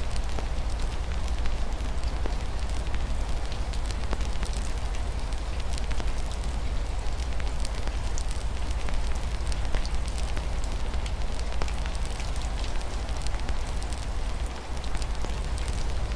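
Wood fire crackling with frequent irregular pops over a steady low rumble, with rain falling in the background.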